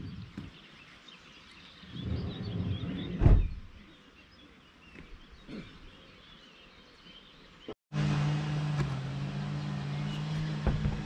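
Faint birdsong outdoors, with a rustling patch and one sharp knock about three seconds in. Near eight seconds the sound cuts out briefly. After that comes a steady low drone made of a few held tones, with bird chirps above it.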